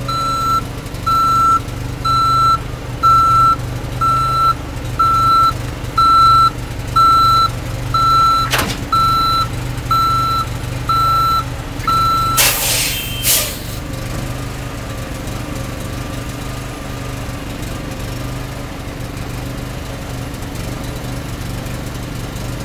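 A truck's reverse alarm beeping steadily, roughly once every 0.8 seconds, over the steady running of its engine as it backs up. The beeping stops about twelve seconds in and a loud hiss of air follows for about a second, then the engine idles on its own.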